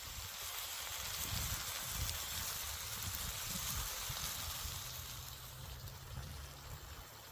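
Meat sizzling in a pan over a wood campfire: a steady hiss with faint crackles, swelling a little in the middle and easing off near the end.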